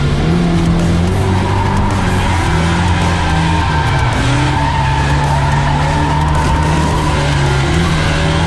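Drift cars running hard with tire squeal, under background music with a steady bass line.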